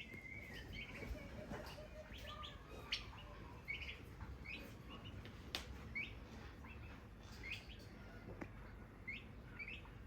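Faint, short bird chirps, irregular and about one a second, with a few light clicks between them.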